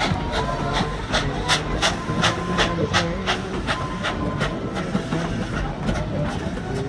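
Tweetsie Railroad's narrow-gauge steam locomotive chuffing steadily while under way, about four exhaust beats a second, over the rumble of the moving train.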